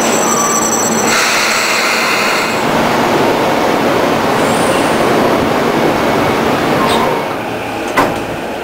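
Electric commuter train heard from inside the car, running with a steady rumble of wheels on rail and a few high whining tones. About seven seconds in a tone falls and the running noise drops away as the train comes to a stop, followed by one sharp clack.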